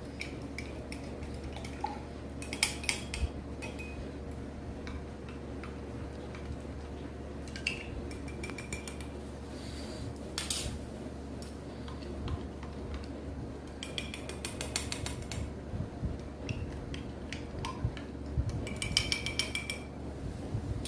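A spoon stirring substances into water in cups, clinking against the sides. It comes in quick runs of ringing taps about 3 s in, around 14 s and again near the end, with scattered single clicks between, over a steady low hum.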